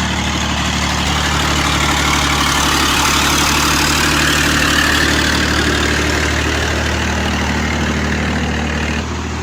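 Heavy vehicle engine running steadily with a low, even rumble, louder through the middle.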